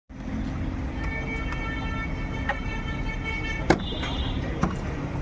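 Steady low vehicle rumble with several sharp clicks or knocks over it, the loudest about three and a half seconds in.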